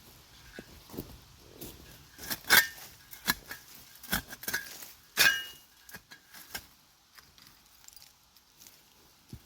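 Steel shovel digging into old dump debris: the blade scraping and striking through soil, with glass and bits of metal clinking. The strokes come irregularly, two of them louder, about two and a half and five seconds in, and they thin out over the last few seconds.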